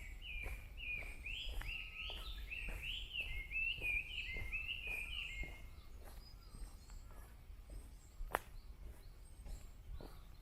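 A songbird sings a quick run of repeated arched, whistled notes for the first half, then stops. Under it come steady walking footsteps at about two a second. A single sharp click sounds about eight seconds in.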